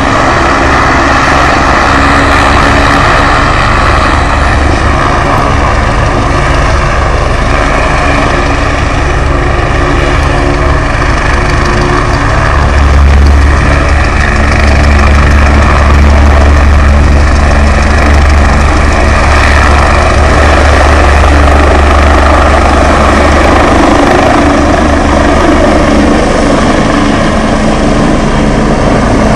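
Life Flight air-ambulance helicopter running close by: a loud, steady turbine whine and rotor drone, with the low rotor drone growing stronger for about ten seconds in the middle.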